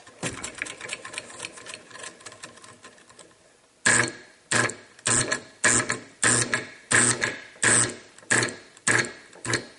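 Homemade solenoid engine running on 120 volts: first a fast, faint chatter of clicks, then from about four seconds in the solenoid fires in loud, evenly spaced buzzing strokes, about ten of them at under two a second.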